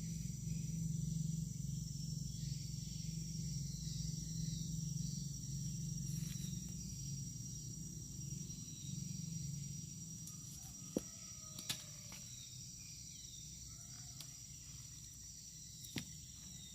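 Steady chorus of insects, a continuous high-pitched buzz, over a low hum that fades away during the first ten seconds. A few sharp clicks come in the second half.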